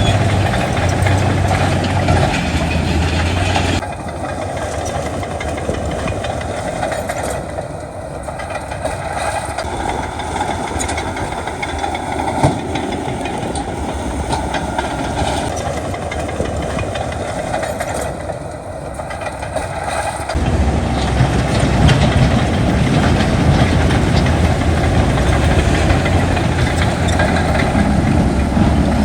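Heavy earthmoving machinery running: a continuous low engine drone. It drops in level abruptly about four seconds in and comes back louder and heavier about two-thirds of the way through.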